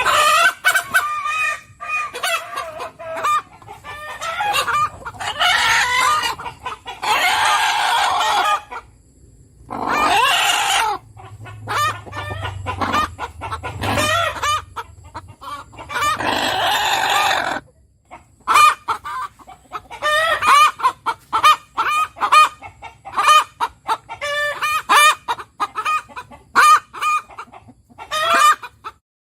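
Chickens clucking, with several longer rooster crows in the first half. From about two-thirds of the way through the calls become rapid, short clucks.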